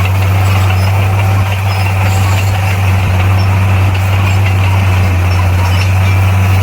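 Bulldozer's heavy diesel engine running steadily with a deep, even hum and no change in pitch.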